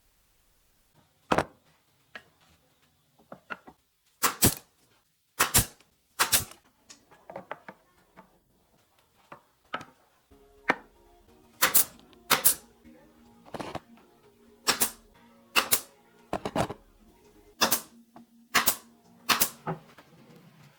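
A series of sharp, irregular knocks and taps, about one a second, with lighter ticks between them. Faint steady tones come in about halfway through.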